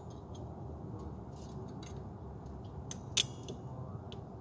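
Small scattered plastic clicks and rattles from nylon cable ties being handled, with one sharper click about three seconds in, over a steady low background rumble.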